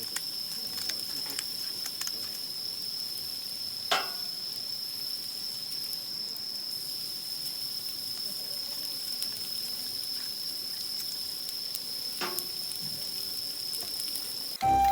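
A steady, high-pitched insect drone, with faint scattered crackles and ticks and two brief sweeping sounds about 4 and 12 seconds in.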